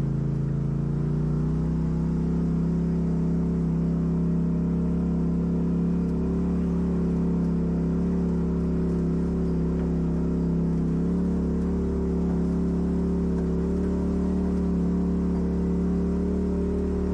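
Off-road vehicle engine running at a steady, even speed. Its pitch rises back up in the first second after a brief dip.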